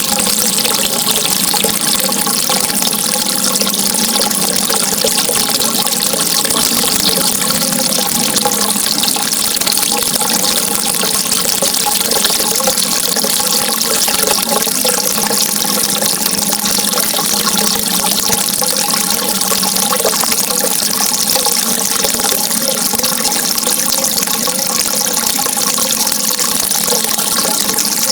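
Steady, unbroken rushing of flowing water with no pauses or changes, and several faint steady tones underneath.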